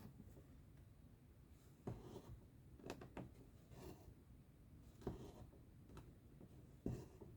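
Faint cross-stitching sounds: a needle pushed through the fabric and thread pulled taut, as short soft taps and rustles roughly once a second from about two seconds in.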